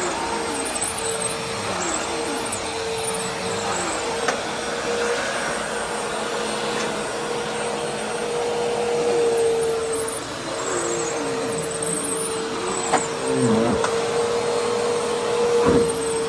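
Vacuum cleaner running steadily, its motor holding one unchanging whine over a rush of air, with a few sharp clicks and knocks along the way.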